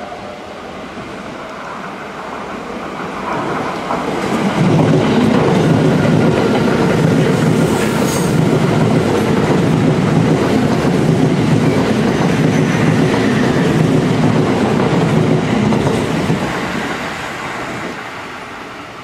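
A Kintetsu red-and-white electric commuter train running through a station without stopping. Its noise swells over about four seconds, holds loud for about twelve seconds as the cars go by the platform, then fades.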